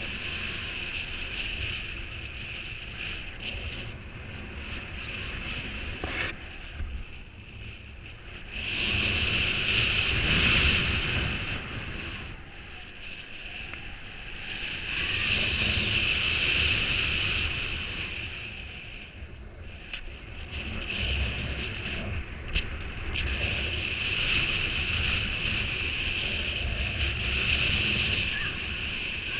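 Strong wind rushing over the microphone in a 30 km/h breeze, swelling in gusts several times and easing between them, with a steady hiss throughout.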